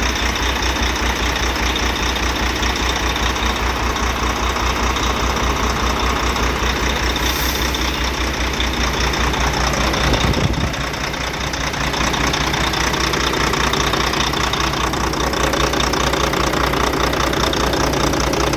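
Volvo FH truck's diesel engine idling with a steady pulsing beat and a misfire; the mechanic suspects a dead injector, which also makes it smoke. About ten seconds in it briefly swells, then drops back.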